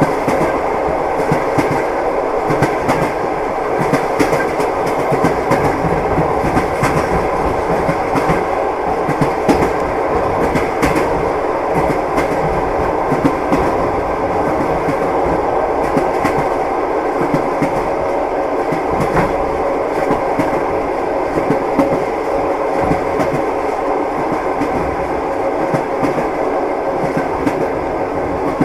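Train wheels clacking over rail joints with the steady rumble of a moving train.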